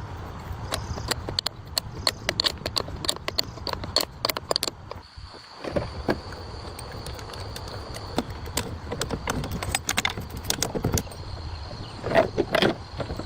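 Irregular metallic clicks and clinks of hand tools and parts being handled during diesel engine repair work, loudest in a quick cluster near the end. Underneath is a steady high insect trill.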